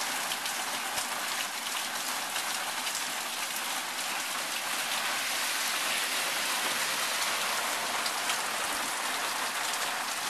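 Heavy rain falling on pavement and lawn: a steady hiss dotted with many small drop ticks.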